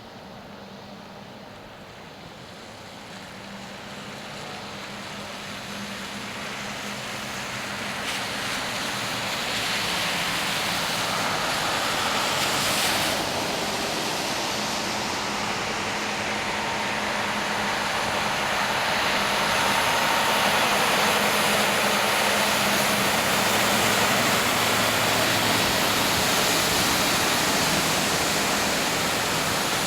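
Heavy road vehicles approaching and passing slowly: engine hum and tyre and road rush that grow louder over about the first ten seconds, then hold steady.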